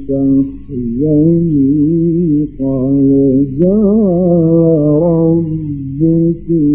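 Male Qur'an reciter chanting in the melodic Egyptian mujawwad style, drawing out long wavering melismatic notes with short breaks for breath between phrases.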